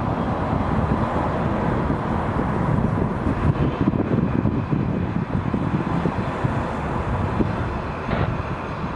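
Airbus A340's four jet engines giving a steady deep rumble during takeoff, with wind buffeting the microphone.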